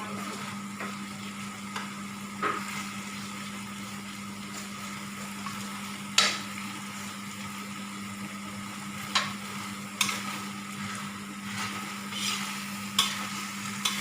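Food sizzling in a frying pan while it is stirred, with a utensil clinking sharply against the pan several times. A steady low hum runs underneath.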